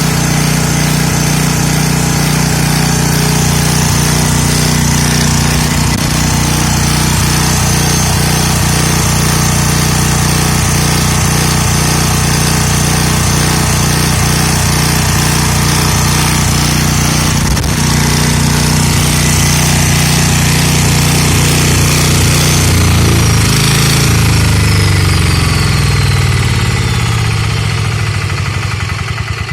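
A Petter AC1 304 cc single-cylinder diesel engine running at a steady speed. After about 22 seconds its speed drops, and over the last few seconds the sound gets quieter as the engine slows and the individual firing strokes can be heard.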